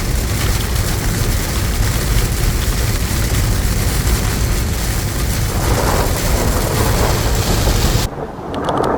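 Heavy road and wind noise inside a vehicle driving at speed through a storm. Near the end it cuts suddenly to a quieter patter of rain.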